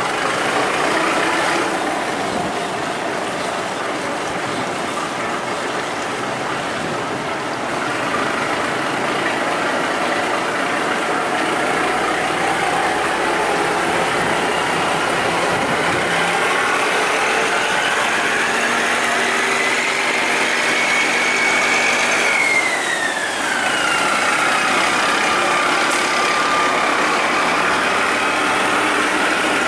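Tugboat's diesel engine running steadily, with a whine that climbs in pitch past the middle and then drops away again as the engine is throttled up and eased off.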